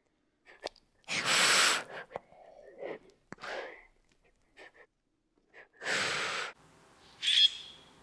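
Asian water monitor hissing: two loud, breathy hisses about five seconds apart, with fainter breathy sounds between them.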